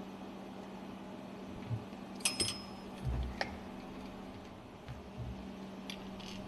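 Light metallic clinks of steel tools and parts being handled while a marine diesel fuel pump is dismantled, with one short ringing clink and a dull thump about three seconds in, over a faint steady hum.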